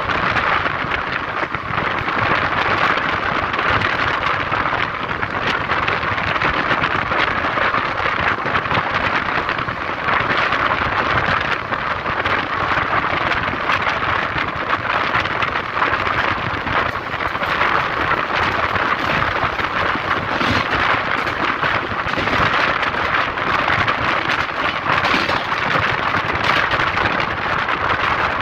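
Steady rushing noise of a moving train.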